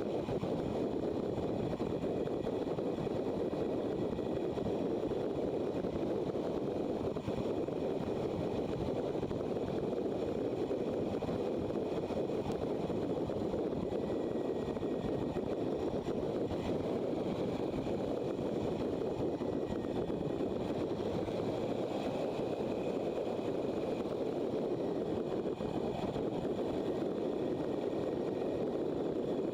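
Motorcycle underway at a steady pace: an even rush of engine and wind noise on the microphone, with a faint high whine above it.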